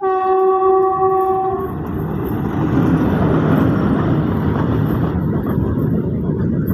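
Train horn sounding one blast of about a second and a half, over the loud, steady rushing rumble of a train passing close by, which carries on after the horn stops.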